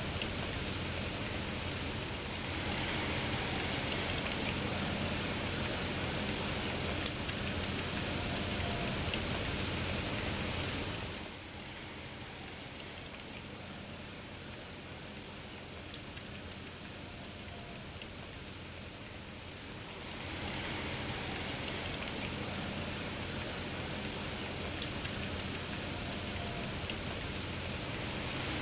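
Steady rain falling. It eases to a softer, quieter patter for about nine seconds in the middle, then comes back up. Three single sharp ticks sound about nine seconds apart.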